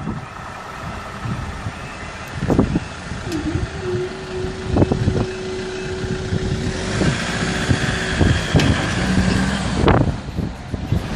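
Road traffic: vehicles passing by, with a steady tone held for about five seconds in the middle.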